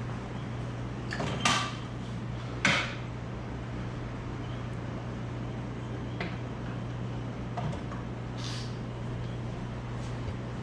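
Two short, loud hissing bursts about a second apart, then a few fainter short ones, over a steady low hum.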